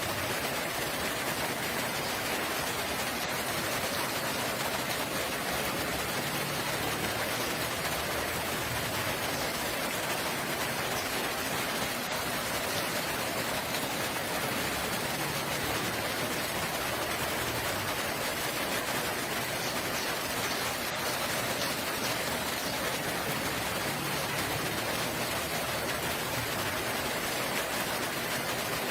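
Steady rain falling, an even hiss without pauses or changes.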